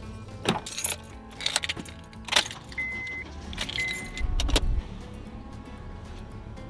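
Clicks and knocks of handling around a vehicle, with keys jangling, two short high beeps about a second apart near the middle and a low thud shortly after; faint music comes in for the last part.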